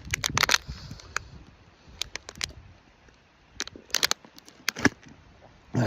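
A scattered series of sharp clicks and taps in small clusters, with quiet gaps between them.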